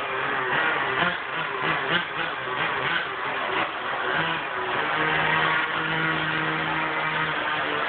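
Small engine of an engine-powered RC car running unevenly, blipped on and off, then settling about five seconds in into a steady, even note.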